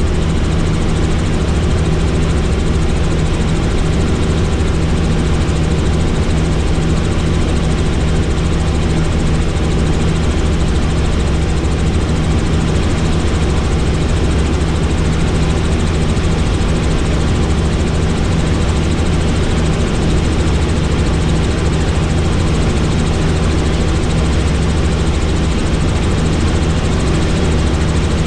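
Helicopter in flight: steady, loud rotor and engine noise with a constant low drone.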